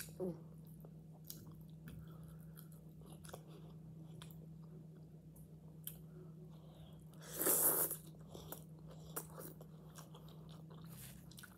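Close-miked chewing of a forkful of vegetables: wet mouth sounds with small crunches and clicks. There is a louder noisy burst of about half a second some seven seconds in, and a low steady hum underneath that stops about a second before the end.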